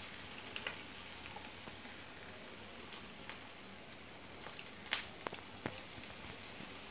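Bread pockets shallow-frying in hot oil in a pan: a faint, steady sizzle with scattered crackles, and a few sharper pops near the end.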